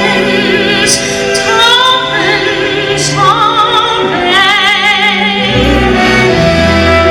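Live orchestral song: a soprano voice with wide vibrato climbs in steps to a long held high note over sustained strings. Deep low notes come in under the voice near the end.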